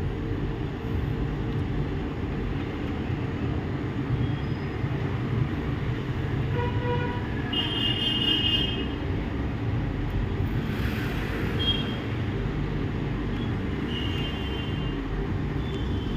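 Steady low background rumble, with a few short high-pitched tones about halfway through and again near the end.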